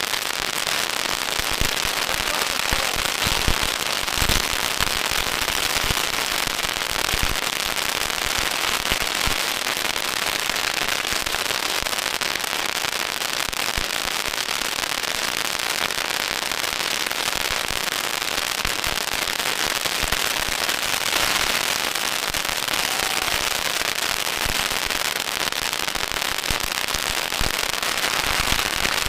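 Long strings of firecrackers going off in a continuous rapid crackle of countless small bangs, steady and unbroken throughout.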